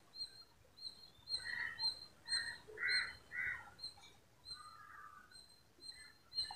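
Birds calling: a quick run of about five short caws in the first half and one longer call near the middle, over a faint high chirp repeating about twice a second.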